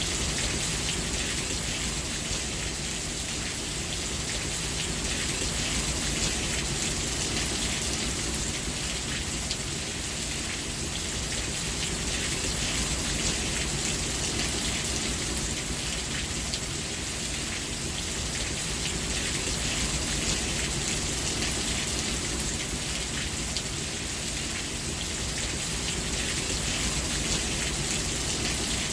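Steady rain falling: an even hiss with a dense patter of drops on surfaces.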